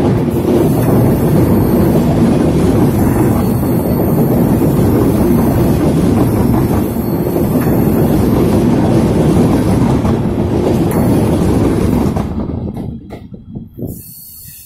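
Bangladesh Railway broad-gauge passenger coaches rolling past close by: a loud, steady rumble of wheels on rail that fades away quickly after about twelve seconds as the last coach moves off.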